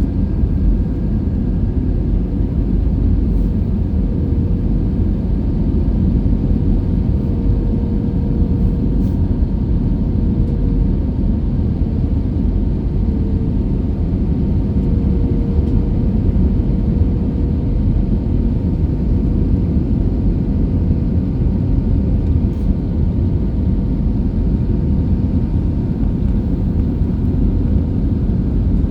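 Airbus A320 jet noise: a steady low rumble of engines and airflow, with a faint steady hum on top.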